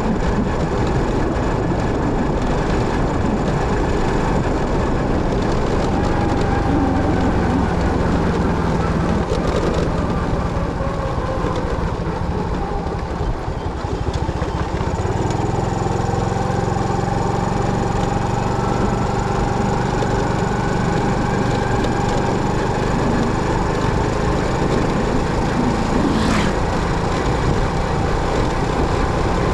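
Motorcycle running under way, with steady engine and road noise; the engine note shifts about halfway through.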